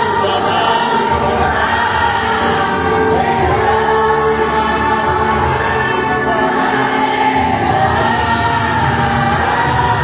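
A group of voices singing a gospel hymn together, sustained and continuous.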